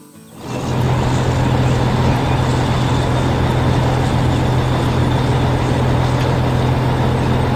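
Loud vehicle engine sound effect starting about half a second in and running steadily, a low hum over a broad rushing noise.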